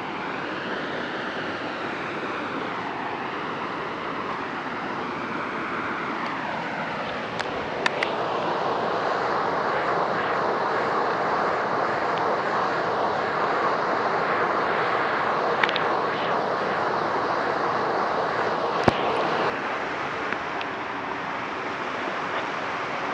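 Steady rushing roar of a waterfall, growing louder about eight seconds in.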